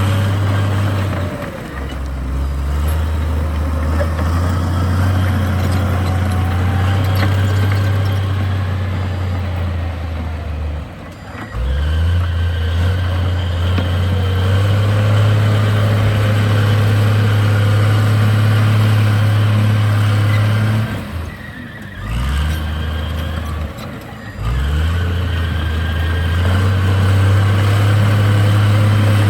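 Heavy diesel engine of earthmoving equipment working under changing load, its deep steady note shifting down and picking back up several times, with a short lull about three-quarters of the way in before it rises again.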